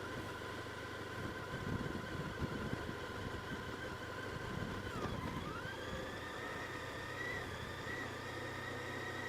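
Honda ST1300 motorcycle's V4 engine running under way with road and wind noise. Its whine dips briefly in pitch about five seconds in, then climbs again and keeps rising slowly as the bike speeds up.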